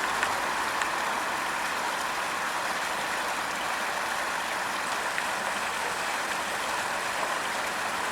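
Small waterfall on a stream, water pouring and rushing in a steady hiss.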